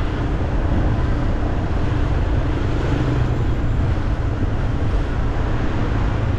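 Steady rumble of street traffic, with a heavy low hum and no distinct horns or knocks.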